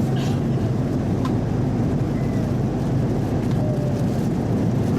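Steady low rumble of an Airbus A330-300 cabin in cruise, from engine and airflow noise, with a couple of faint clicks.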